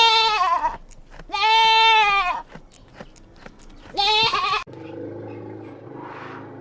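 Bleating livestock: three loud, wavering, high bleats, the first two about a second long and the third shorter, followed by a faint steady background.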